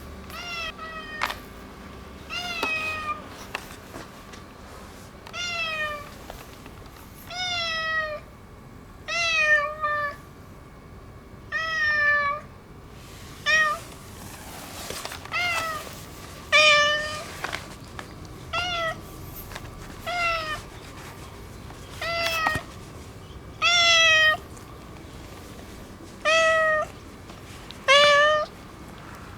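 A neutered ginger tabby tomcat meows over and over, about fifteen short calls each ending on a slight downward fall in pitch, one every one to two seconds, in the insistent way of a cat asking for attention.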